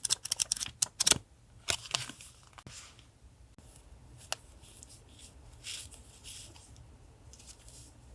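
Paper and sticker sheets being handled for a collage. A quick run of crisp clicks and crinkles fills the first second or so, followed by sparse soft rustles and a single sharp click near the middle.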